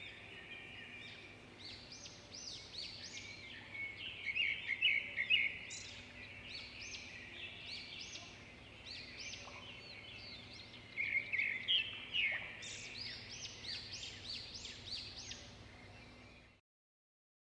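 Birds chirping: many short, quick calls overlapping in a busy chorus, with louder bursts around five and twelve seconds in. It cuts off abruptly near the end.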